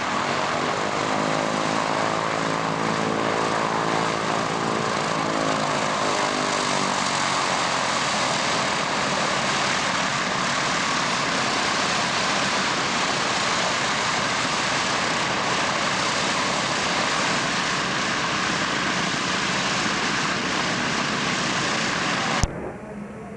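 Aircraft engine noise, loud and steady, as a plane flies past, with a sweeping phasing sound in the first few seconds. It cuts off abruptly with a click near the end.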